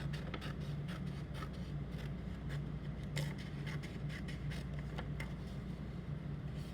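Scissors snipping through a sheet of paper, a series of irregular short cuts and scrapes, over a steady low hum.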